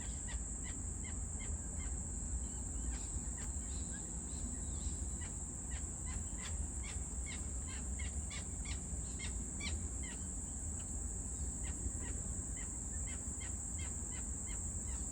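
Steady high-pitched insect drone from crickets, with many short, quick bird chirps scattered over it, several a second.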